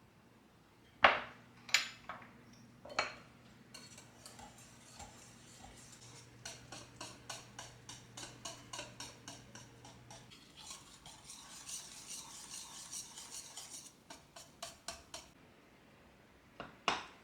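A utensil clinking sharply against dishes three times, then stirring in a bowl in a steady rhythm of about three strokes a second, with a faint low appliance hum that stops about ten seconds in. Two more clinks near the end.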